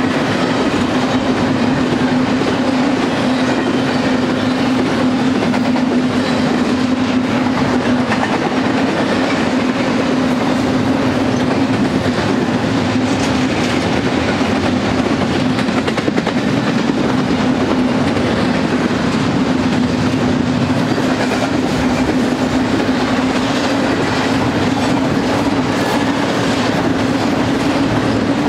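Double-stack intermodal train's loaded container well cars rolling past, a loud steady rumble of steel wheels on rail with a clickety-clack of wheels over rail joints and a steady hum underneath.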